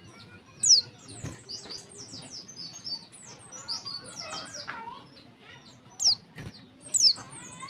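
Female white-eye (pleci) calling: three loud, sharp downward-sliding whistles, one about a second in and two near the end, over busy high twittering chirps. This is the female's call that keepers play to set male white-eyes singing.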